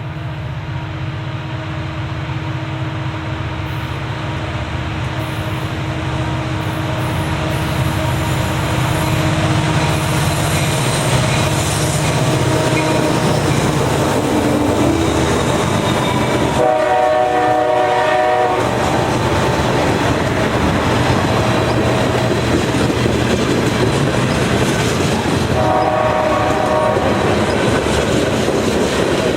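A train approaching and growing louder, then passing with wheels clattering on the rails. The locomotive horn sounds twice: a longer blast past the middle and a shorter one near the end.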